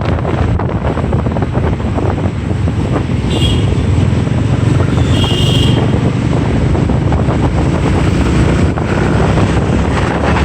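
Wind buffeting the microphone over the steady running of a motorbike and the surrounding traffic during a ride. Two short high tones cut through, one a few seconds in and another about two seconds later.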